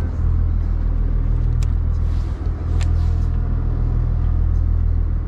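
A fishing boat's engine running with a steady low hum, with a few faint clicks over it.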